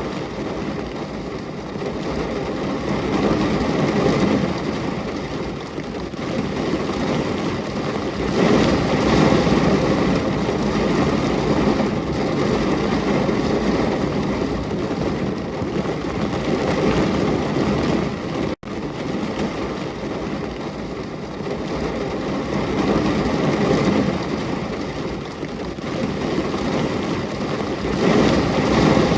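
Steady heavy rain, a dense even rush that swells and eases every few seconds, with one very brief drop-out about two-thirds of the way through.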